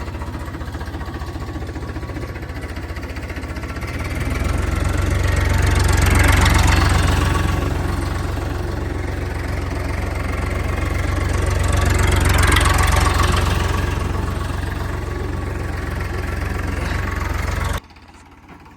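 Tractor engine running with a knocking, chugging beat. It swells louder twice, and near the end the sound drops away suddenly.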